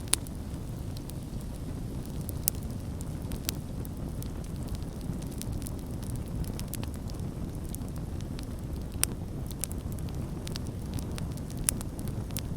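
Wood campfire burning: a steady low rumble under irregular sharp crackles and pops, with a few louder snaps near the start, about two-thirds through and near the end.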